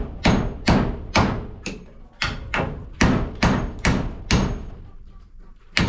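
Hammer driving a nail into wood, a steady run of sharp blows at about two a second. The blows break off for about a second near the end, then one more strike follows.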